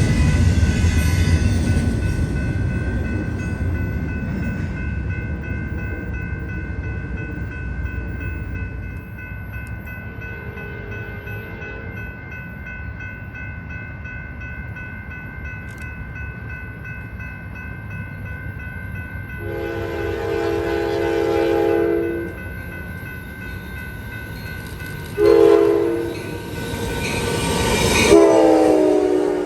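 Approaching Amtrak passenger train sounding its horn in the grade-crossing pattern: long, long, short, long. The first blast is faint, and each later one is louder as the train nears, the last one bending in pitch. A low rumble from the previous train fades away in the first few seconds, and steady high tones ring underneath.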